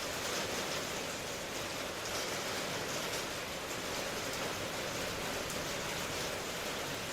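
Steady rain falling, an even hiss of many small drops with no pauses or changes.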